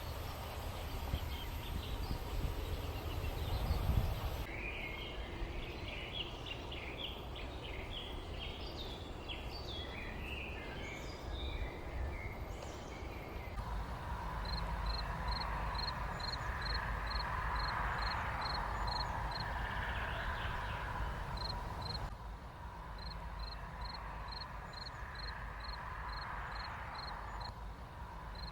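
Countryside ambience of birds chirping over a low rumble, spliced from several recordings with abrupt changes. Busy chirping fills the middle. After that comes a regular high chirp repeated about twice a second, alongside a steady faint tone.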